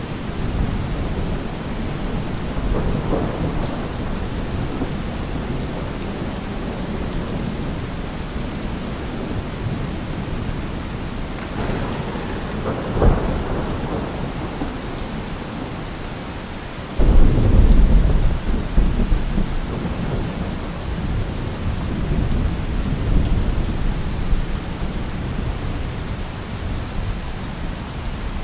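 Steady heavy rain with rolling thunder: low rumbles about three seconds in and again around twelve seconds, then a sudden loud thunderclap a little past halfway that rumbles on for several seconds.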